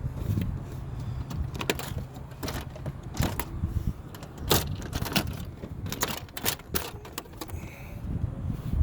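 Engine access cover being pulled out of a Porsche Boxster S: a string of irregular sharp clicks, knocks and rattles of the panel and its fasteners being handled. A low hum sits under the first few seconds.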